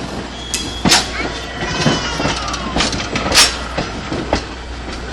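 Train moving along the track: irregular sharp clanks and clicks of wheels and cars over the rail joints, the loudest about a second in and again past the three-second mark, over a steady low rumble.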